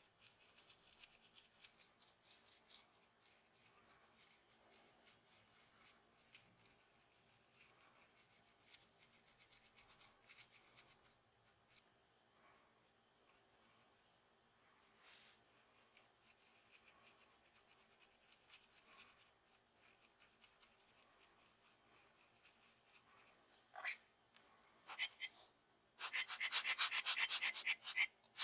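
Faint, intermittent rubbing and scraping of a hand tool working a small hard part at the workbench. Near the end it breaks into a louder, fast run of repeated strokes.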